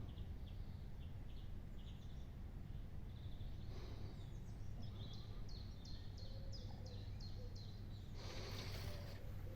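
A small bird singing a run of short, quickly repeated falling notes over a steady low rumble, with a brief hiss near the end.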